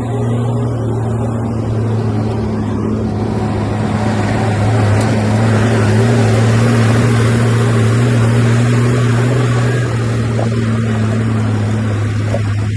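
Heavy earthmoving machine's diesel engine running steadily under load at a constant low pitch. About three seconds in it grows louder with more noise on top, and it eases back slightly about ten seconds in.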